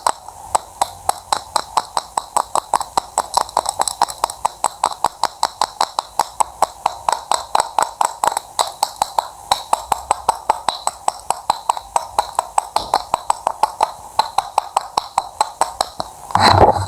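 Knife cutting on a cutting board in a fast, even rhythm of sharp clicks, about five strokes a second. Near the end a louder sweeping sound comes in, and music with a low steady tone starts.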